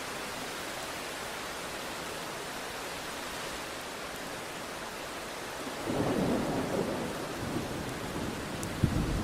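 Steady rain hiss; about six seconds in, a low rumble of thunder rolls in, and a sharper thunder clap breaks just before the end.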